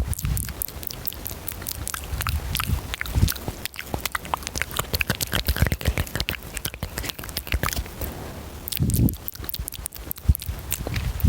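Fast, wet mouth sounds made close to the microphone: rapid clicks and smacks of lips and tongue, with audible breathing.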